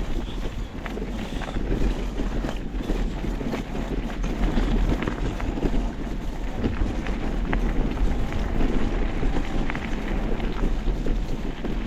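Off-road motocross ride: heavy wind buffeting on the microphone over the motorcycle's running engine, with scattered sharp knocks.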